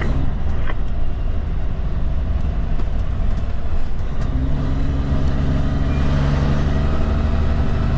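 Kenworth K200 cabover's Cummins diesel engine running under way, heard from inside the cab as a steady low rumble. About four seconds in, a steadier, more pitched engine note comes up.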